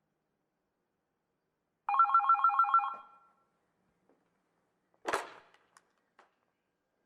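A single burst of electronic telephone-style ringing, a fast warbling trill of alternating tones lasting about a second. About three seconds later comes a short noisy clatter.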